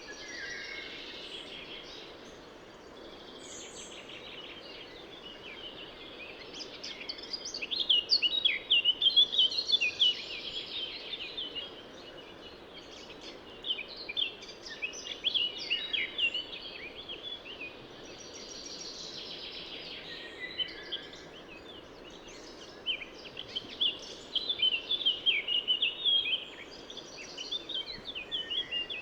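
Songbirds singing in bursts of quick, repeated chirping phrases over the steady rush of a river.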